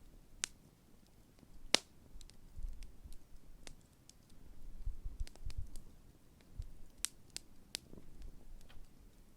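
Large wood campfire crackling: irregular sharp pops and snaps, the loudest about two seconds in, over a low rumble that swells in the middle.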